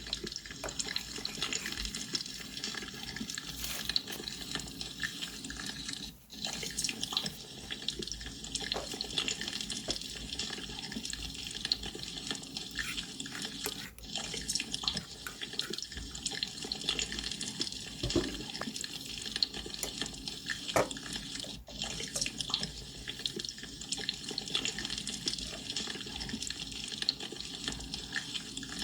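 Water bubbling and gurgling steadily with many small pops, broken by brief dips about every eight seconds.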